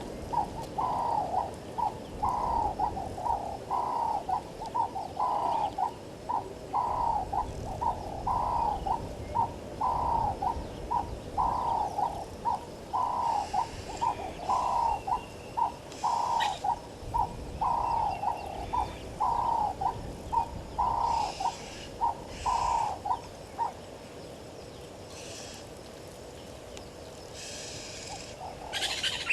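A bird calling a long run of evenly spaced notes on one low pitch, about three every two seconds, stopping about 24 seconds in. Other birds chirp faintly at a higher pitch in the second half.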